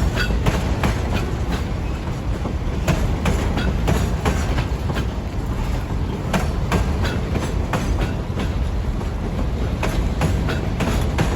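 Empty freight wagons rolling past, their wheels clacking sharply and irregularly over rail joints above a steady low rumble.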